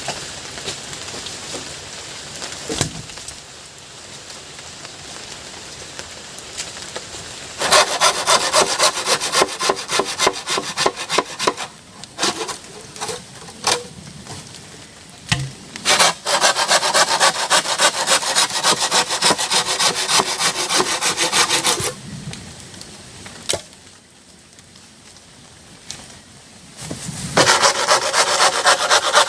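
Wood being sawn by hand: three spells of quick, even back-and-forth strokes, starting about eight seconds in, again at sixteen seconds and near the end, with a quieter steady hiss of rain between them.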